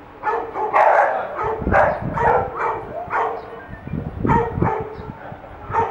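Dog barking over and over, about two to three short barks a second.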